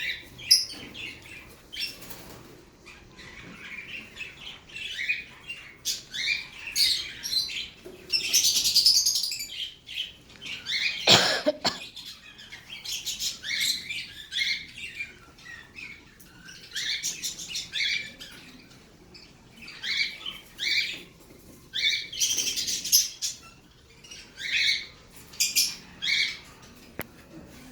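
Pet lovebirds chirping in a busy run of short, high calls. One sharper, louder sound comes about eleven seconds in.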